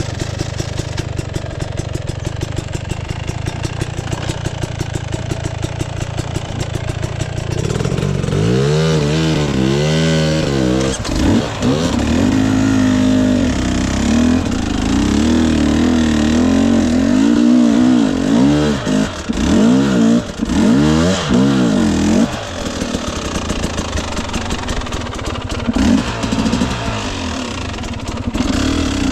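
Husqvarna TE 250i two-stroke dirt bike engine running steadily at low revs. From about eight seconds in it is revved up and down again and again in quick surges.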